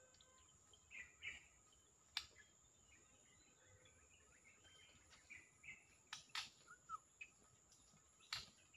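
Faint bird chirps and short calls, with a few sharp clicks among them, over a steady high-pitched hum.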